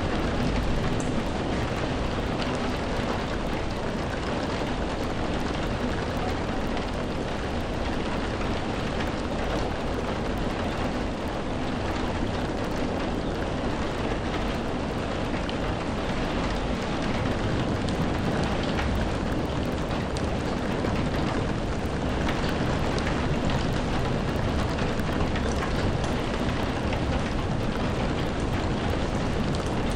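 Steady rainfall: a dense, even hiss of rain with a low rumble underneath and faint scattered drop ticks.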